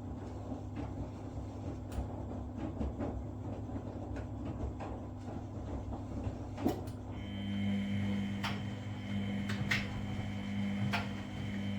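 Washing machine running a wash cycle: a steady low rumble with occasional sharp knocks, and a steady motor hum that starts about seven seconds in.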